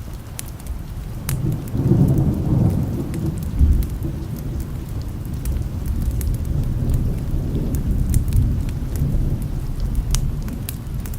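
Thunder rumbling, swelling about a second and a half in and rolling on, over steady rain, with scattered sharp ticks throughout.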